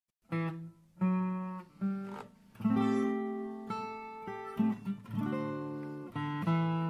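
Acoustic guitar playing a series of chords, each struck and left to ring and fade, starting a moment in.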